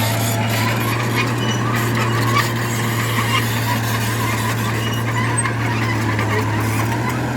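Diesel engine of a heavy earthmoving machine running steadily under load, with scattered metallic squeaks and clinks over the deep engine drone.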